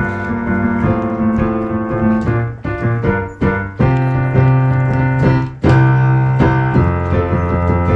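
Piano playing a choral-song accompaniment: full chords over held bass notes, with a few short gaps a third of the way in and strong new chords struck about halfway through and again a little later.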